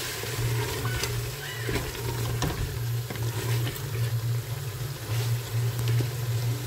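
Chicken and masala sizzling in a pressure cooker pot while a wooden spoon stirs and scrapes it, the masala being fried down (bhuna) with a splash of water. A steady low hum sits underneath.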